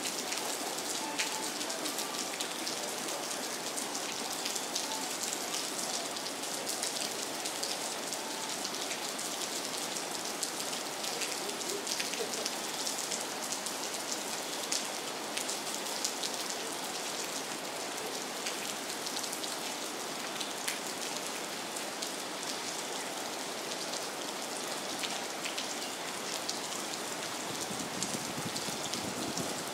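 Steady rain falling on water: a dense, even hiss dotted with many small drop ticks.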